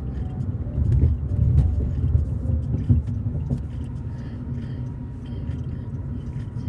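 Steady low rumble inside a car, with scattered short clicks and rattles.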